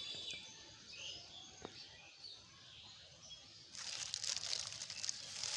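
Birds chirping faintly in the background, then about four seconds in a loud rustling and crackling starts up close by.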